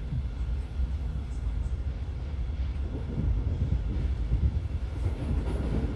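Regional train running along the track, heard inside the passenger coach: a steady low rumble of wheels and running gear, getting rougher and slightly louder about halfway through.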